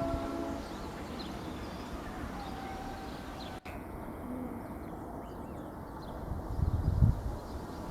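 Birds calling, short faint calls and a few low cooing notes. A steady horn-like tone ends about half a second in, and low rumbling thumps come near the end.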